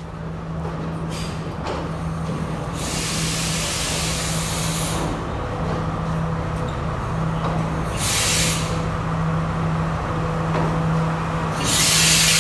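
Train engine running with a steady low hum, with three bursts of air hissing, one about three seconds in, one about eight seconds in and a longer one near the end.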